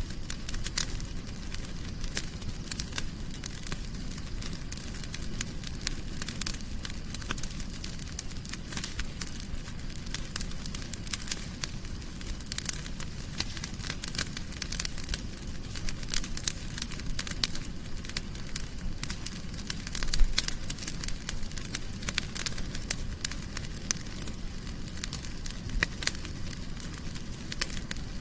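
Wood fire crackling in a fireplace: a dense run of sharp pops and snaps over a low steady rumble of flame, with one louder pop about two-thirds of the way through.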